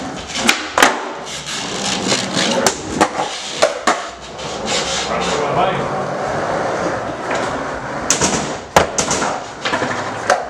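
Skateboard clacking and rolling: a series of sharp wooden clacks from the tail popping and the board landing, with a stretch of steady wheel roll from about four to eight seconds in.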